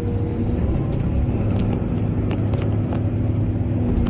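Excavator's diesel engine running steadily with a low rumble and a constant hum, a few faint ticks over it, and a short hiss right at the start.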